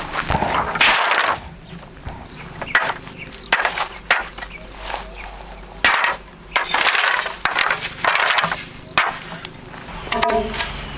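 Irregular sharp knocks and chops, with rustling, scraping hand work between them.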